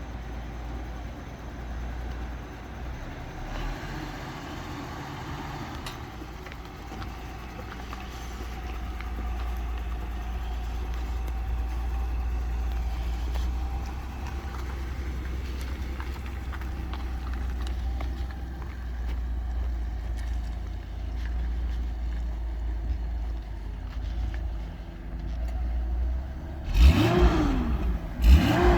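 1983 Datsun 280ZX's inline-six engine running with a steady low rumble. Near the end it is revved sharply twice, the pitch rising and falling each time.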